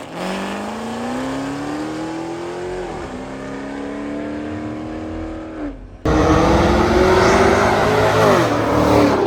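A car engine revving hard: its pitch climbs for about three seconds, dips, then holds high. About six seconds in it suddenly gets much louder, the pitch held high again before falling off near the end.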